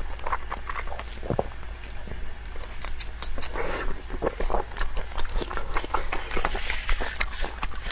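A person chewing food close to the microphone: irregular wet smacks and clicks of the mouth.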